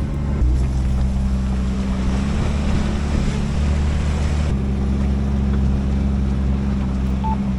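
Off-road vehicle's engine running at a steady low speed while driving on a trail, a low, even drone that shifts slightly about halfway through.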